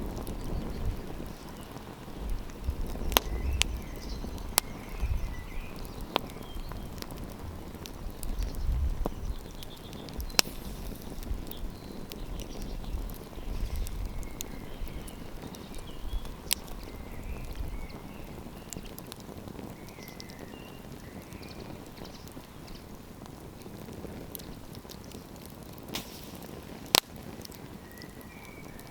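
Wood campfire crackling, with irregular sharp pops and snaps over a steady low hiss of burning. Wind gusts rumble on the microphone for the first half, then die down.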